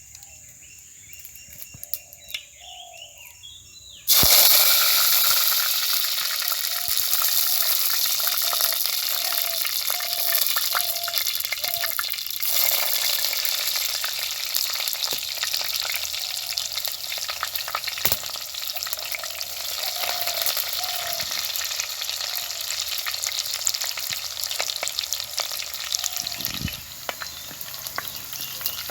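Faint bird chirps, then about four seconds in food goes into hot oil in a cooking pan with a sudden loud sizzle that keeps frying steadily while it is stirred.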